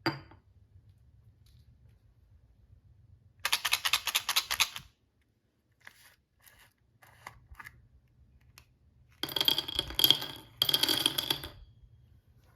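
Close-up handling of a small toy set's plastic and packaging: a sharp click, a burst of rapid fine crackling ticks, a few scattered small clicks, then two louder scratchy crinkling bursts near the end.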